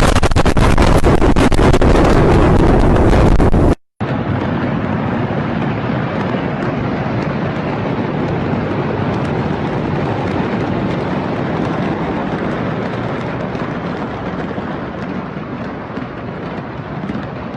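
Very loud explosion blast filling the whole range, already under way, that cuts off abruptly about four seconds in. After a brief gap comes a long rumbling roar that slowly fades.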